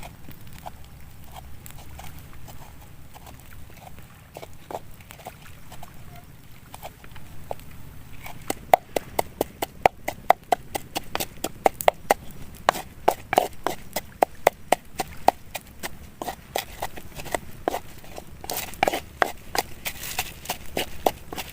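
Knife chopping quickly on a wooden board: sharp, hollow knocks about three to four a second, starting about eight seconds in after faint knocking.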